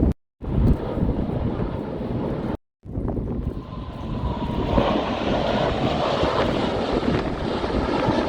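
Airplane engine noise from an aircraft flying over, swelling about five seconds in, mixed with wind rumbling on the microphone. The sound cuts out briefly twice in the first three seconds.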